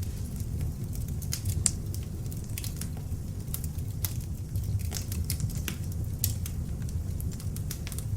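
Beech logs burning in an open fireplace: a steady low rumble of flame with frequent sharp, irregular crackles and pops.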